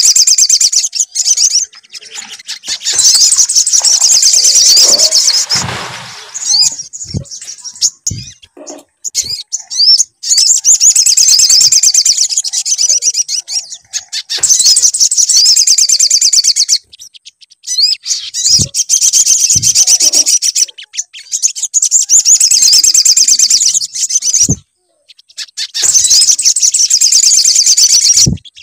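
Sogon (sogok ontong) bird song used as a lure track. It runs in phrases of rapid, high, chattering chirps a few seconds long, with short pauses between them and a few soft low thumps in the gaps.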